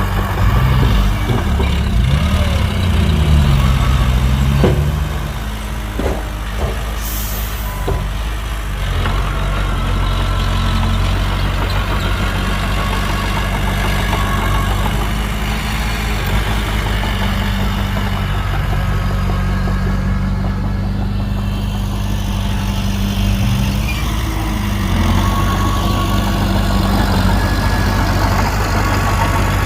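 Heavy diesel engine running, its pitch rising and falling in the first few seconds, then holding steady. A short hiss of air comes about seven seconds in.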